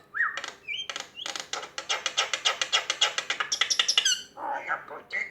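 Mynah bird vocalising: a couple of short whistle glides, then a fast run of clicks, about eight a second, lasting about three seconds, ending in a falling whistle and a brief throaty call.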